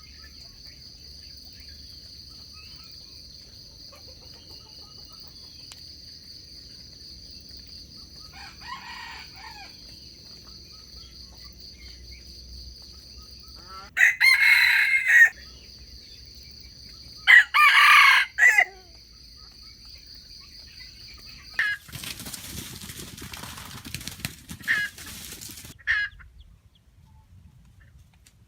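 Wild junglefowl rooster crowing: a faint crow, then two loud short crows a few seconds apart, over a steady high buzzing drone. Near the end the drone stops suddenly and gives way to rustling with a few short sharp chirps.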